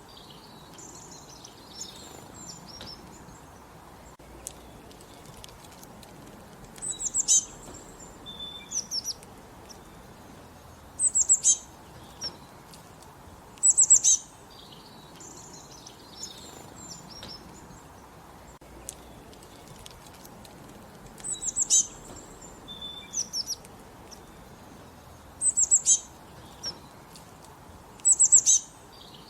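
A songbird repeating a short, high song phrase six times, a few seconds apart, each a quick run of falling notes, with softer chirps from birds in between.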